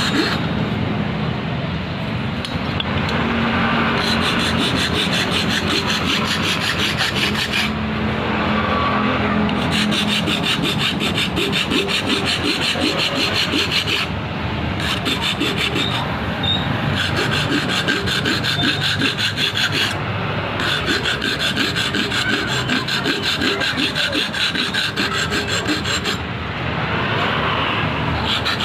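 Steady rasping hand-tool work, rubbing stroke after stroke, with short breaks every few seconds.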